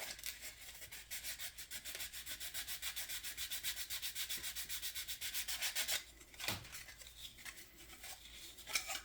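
Sandpaper rubbed quickly back and forth by hand over dried body putty on a plastic scale model car body, dry sanding at about five or six strokes a second. The strokes stop about six seconds in, leaving only faint scratches and a light knock.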